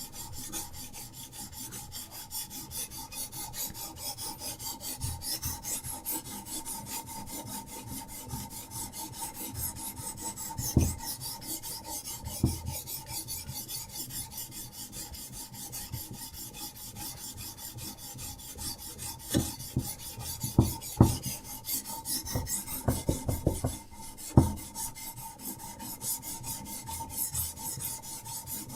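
Diamond sharpening stone on a Hapstone RS guided sharpener rasping along a knife blade in quick, continuous back-and-forth strokes. Now and then a sharp knock sounds, most often in the second half.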